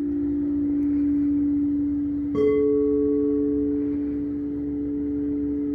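Singing bowls ringing: one low, steady tone sounds throughout, and about two seconds in a second, higher-pitched bowl is struck and rings on over it.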